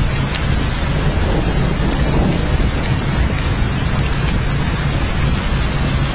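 Steady heavy rain with a low, continuous rumble underneath and many close drops ticking sharply through it.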